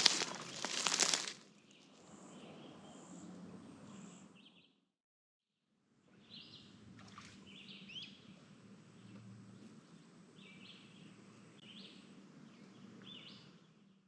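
A loud crackly rustle for about the first second, then quiet swamp-woodland ambience with small birds giving short chirps now and then. The sound cuts out completely for about a second midway.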